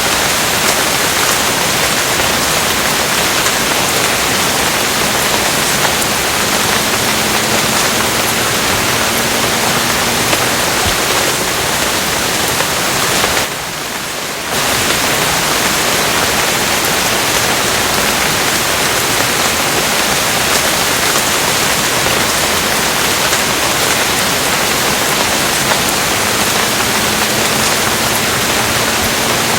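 Steady, heavy rain, an even rushing hiss that drops in level for about a second about halfway through.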